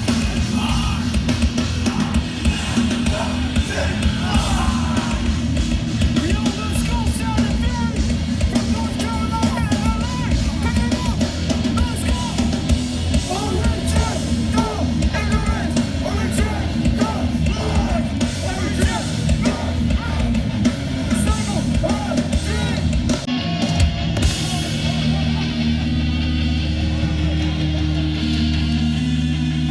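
A hardcore punk band playing live: pounding drums, distorted electric guitars and yelled vocals. About three-quarters of the way in, the drumming drops out and held, distorted guitar chords ring on.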